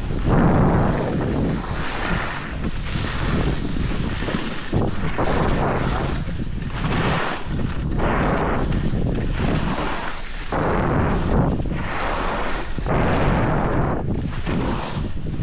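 Wind rushing over the microphone of a camera carried while skiing downhill, mixed with skis sliding over snow. It is a continuous noisy rush that surges and dips unevenly.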